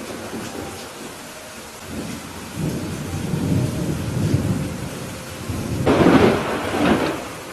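Steady rain during a thunderstorm. A low rolling rumble of thunder builds from about two and a half seconds in, then two louder thunder peaks come near the end, about a second apart.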